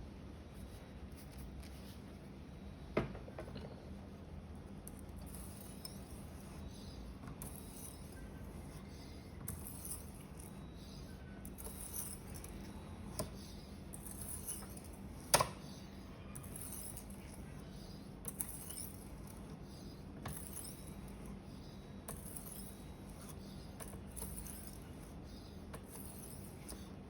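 Paring knife blade scraping along an ultra-fine whetstone in repeated strokes, a short hissing scrape about once a second. Two sharp knocks stand out, one about 3 seconds in and a louder one around the middle.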